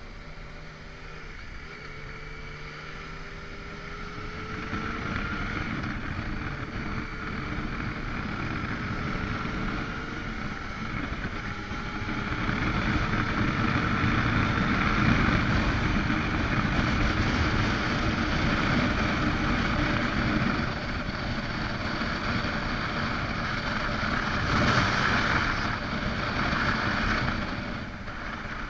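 Motorcycle engine pulling away, its pitch rising several times as it goes up through the gears, with wind rush on the microphone building as the speed picks up and a brief louder gust near the end.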